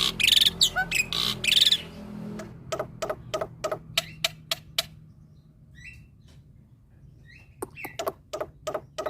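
Male black-winged myna (jalak putih) singing. A loud, harsh burst of calls opens it, followed by runs of rapid repeated notes at about five a second. Near the middle a quieter stretch holds a few short chirps, and the rapid notes start again near the end.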